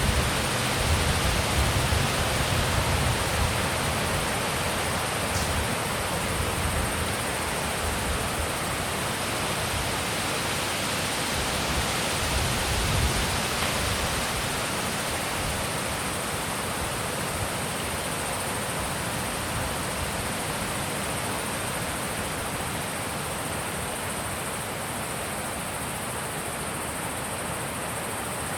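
Wind blowing in a steady rush, with low buffeting on the microphone in the first few seconds and again about halfway through. It eases slightly toward the end.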